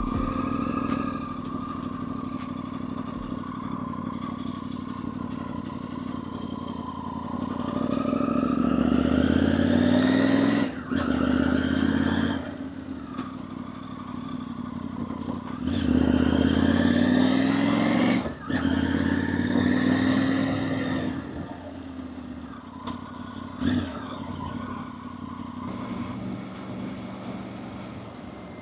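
Motorcycle engine pulling away and accelerating, its pitch rising and then dropping sharply at gear changes about ten and eighteen seconds in, before settling to a steadier cruise near the end.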